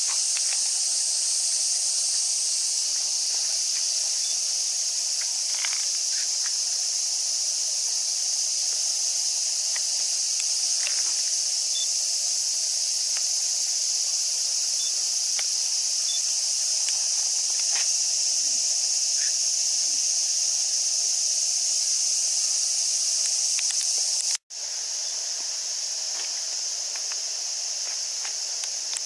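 Dense chorus of cicadas shrilling, a steady high-pitched hiss, broken by a brief dropout about 24 seconds in and slightly quieter after it.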